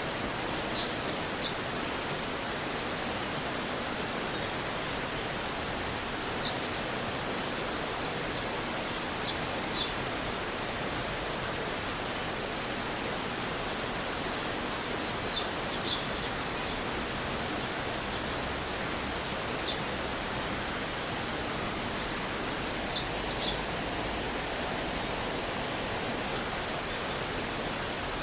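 Stream water flowing in a steady, even rush. Short high chirps come in small clusters every few seconds over it.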